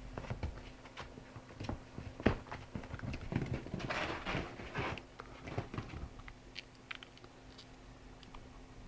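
Four-week-old Siamese kittens playing: patter and scuffling of small paws and claws, with scattered taps, one sharp knock a little over two seconds in, and a denser burst of rustling scuffle around four to five seconds in.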